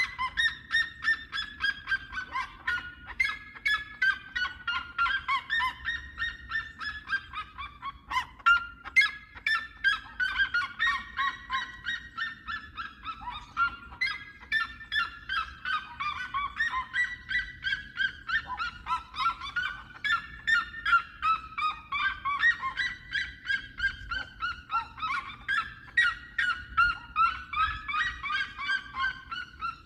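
Seriemas giving their loud yelping song: long series of rapid, repeated yelps, a few notes a second, whose pitch rises and falls in arcs, with overlapping series from more than one bird.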